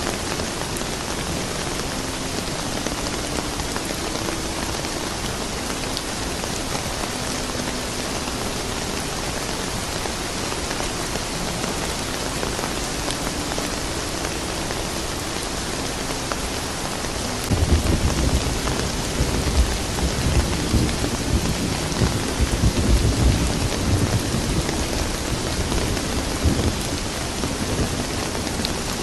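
Steady soft rain falling. About two-thirds of the way through, a deep thunder rumble comes in and rolls on for several seconds before dying away.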